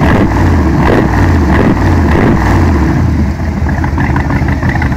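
An American car's V8 engine with a loud exhaust, revved in a few short blips over the first couple of seconds, then running steadily.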